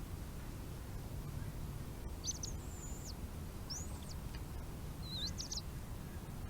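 Bird calls: four short, high-pitched chirps and whistles, some sliding up or down in pitch, spread over the second half, over a steady low rumble.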